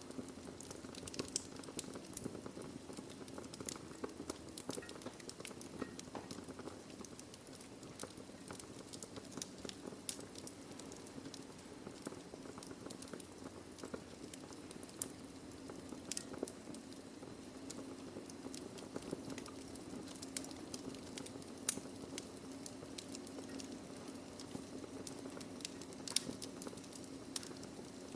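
Wood fire in a fireplace burning steadily: a low rushing hiss of flame with irregular sharp crackles and pops from the burning logs, one louder pop about two-thirds of the way through.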